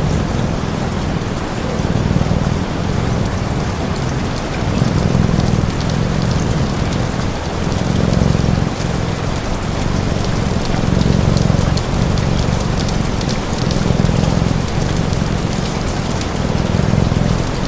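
Steady rain falling, mixed with a cat's low purr that swells about every three seconds and the faint crackle of a fire.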